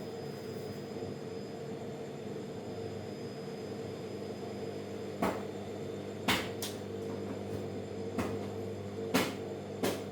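A steady machine hum with several fixed tones. About six short, sharp knocks and clacks come in the second half.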